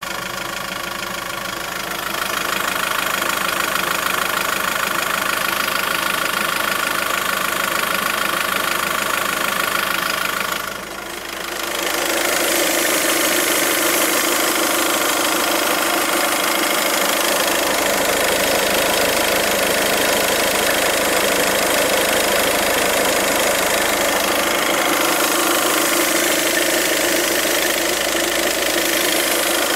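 Volkswagen Golf 6 1.6 TDI four-cylinder diesel engine running at idle, with a steady hissing white noise coming from the right side of the engine. The level dips briefly about eleven seconds in, then the hiss comes back fuller and louder.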